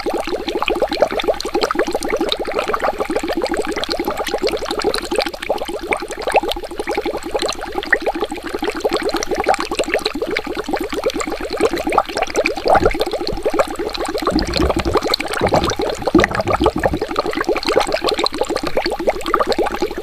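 Water bubbling continuously in a dense stream of rapid small pops, with a few deeper, lower gurgles about two-thirds of the way through.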